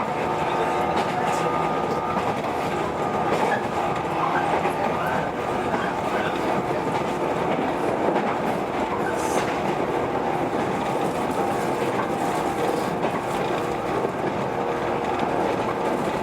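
Running noise inside a JR 115 series electric train at speed: a steady hum from the traction motors and gears over the rumble of the wheels, with a few clicks as the wheels pass rail joints.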